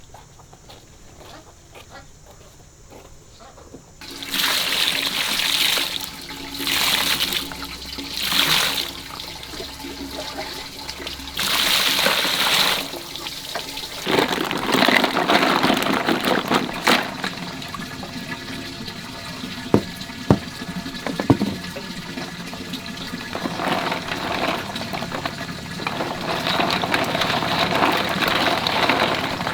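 Water splashing and pouring in several short bursts, then running steadily, with a few sharp knocks partway through.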